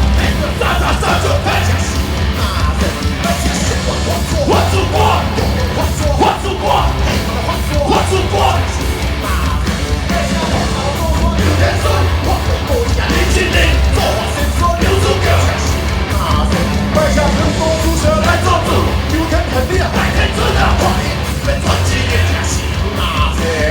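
Loud live band music with a singer over an outdoor concert sound system, with heavy bass.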